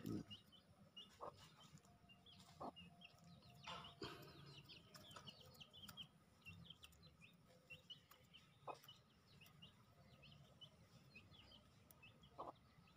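Faint birds chirping, many short quick calls scattered throughout, with a few soft clicks here and there.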